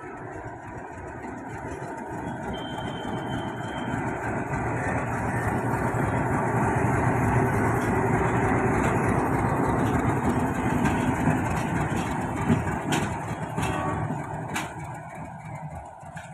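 WDM-7 diesel locomotive passing by: its engine and running noise build as it approaches, are loudest about halfway through, then fade as it moves away, with a few sharp clicks near the end.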